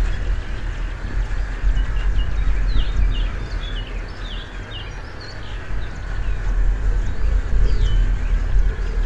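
Songbirds chirping, a run of short sliding notes over several seconds, above a steady low rumble.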